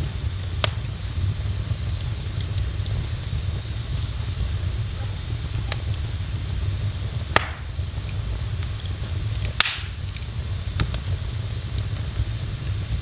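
Wood fire in a fireplace crackling, with a few sharp pops over a steady low rumble; the two loudest pops come a little past the middle.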